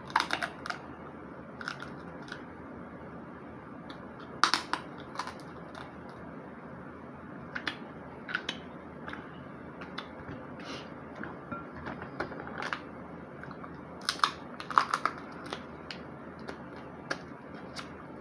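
Shellfish shells cracked and handled while eating, with chewing: scattered sharp cracks and clicks, the loudest about four and a half seconds in and again around fourteen to fifteen seconds.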